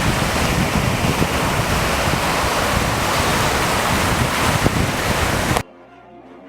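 Sea surf washing onto the beach, with sea wind buffeting the microphone. The loud wave and wind noise cuts off abruptly about five and a half seconds in, leaving quiet guitar music.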